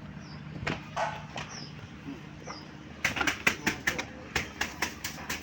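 A quick run of sharp knocks or taps, the loudest part, coming about halfway through over a steady low hum, with a few faint high chirps like small birds.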